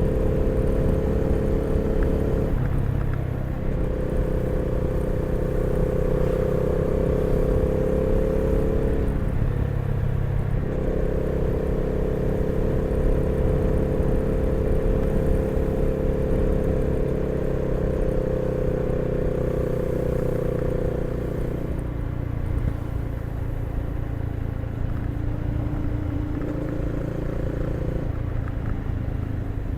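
Honda CB300R's single-cylinder engine running as the motorcycle rides along, with a steady note that drops out briefly about two and a half seconds in and again around nine to ten seconds. After about twenty-two seconds it carries on at a lower, quieter note.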